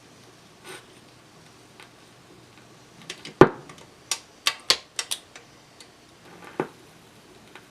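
RCA 45-EY2 record player's changer mechanism cycling between records: a sharp clunk about three and a half seconds in, then a quick run of clicks and another knock near the end, over a faint low hum.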